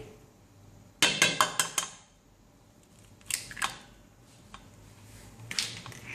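Hard clinks of kitchen utensils against a bowl: a quick run of about six clinks, then two more, then one or two near the end.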